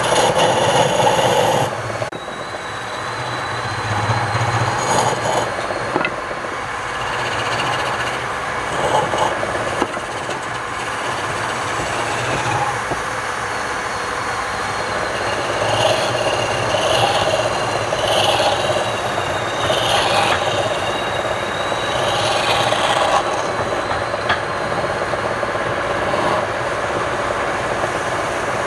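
Wood lathe running while a turning tool cuts the spinning wood: a steady noise with a thin high whine.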